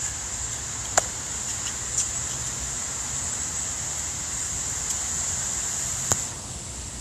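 Steady high outdoor hiss in light rain over a low rumble like distant traffic, with a few sharp ticks about one, two and six seconds in, like drops striking the microphone.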